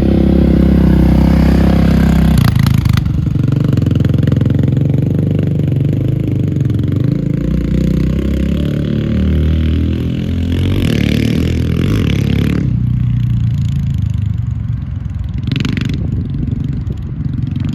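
Yamaha Raptor 700 ATV's single-cylinder engine running, its revs rising and falling, with a marked change in pitch about two seconds in.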